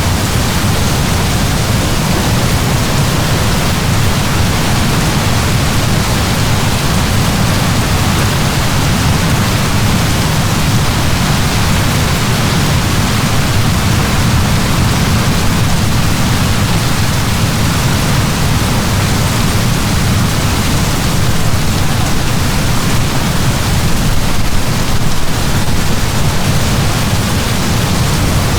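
Steady heavy downpour of rain: an even, dense hiss with a strong low rumble underneath, unbroken throughout.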